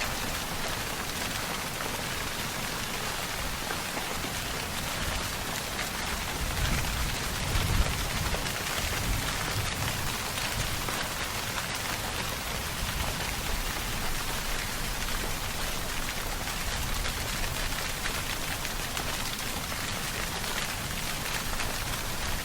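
Steady, even rainfall hissing. A low rumble swells up about seven seconds in and eases off a few seconds later.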